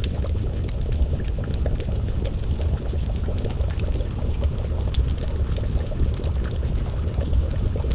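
Wood fire crackling, with frequent sharp pops over a steady low rumble, and a pot of stew bubbling as it simmers over the flames.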